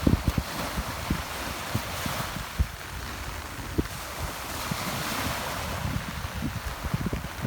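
Rough sea surf rushing steadily in the rain, with wind gusting across the microphone in frequent low thumps, a cluster of them right at the start.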